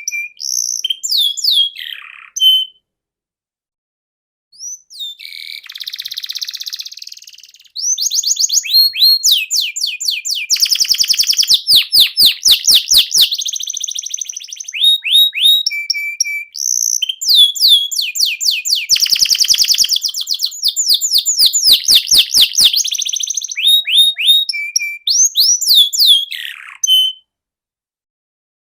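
Canary singing a long song: fast trills of rapidly repeated notes alternating with short falling whistles. The song stops for about two seconds near the start and breaks off again briefly near the end.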